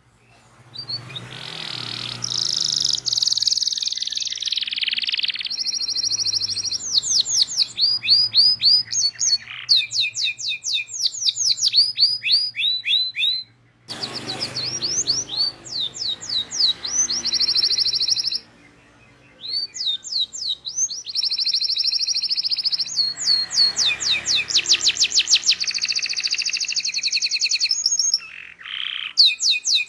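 Domestic canary singing a long, continuous song of rapid trills and fast repeated chirps. It breaks off briefly about halfway through and again for about a second a little later.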